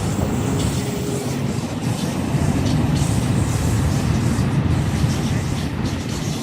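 Two coupled H-set (OSCAR) electric multiple units running past a station platform: a steady rumble of wheels on rail and traction motors. It builds to its loudest mid-way and eases near the end.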